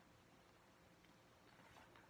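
Near silence: faint room tone and hiss in a pause between read-aloud lines.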